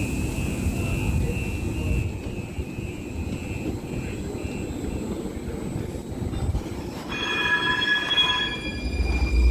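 Muni Metro Siemens light-rail train moving through the underground station: wheels squealing high and steady over a low rumble. Louder squealing in several tones comes in about seven seconds in, and the rumble swells near the end.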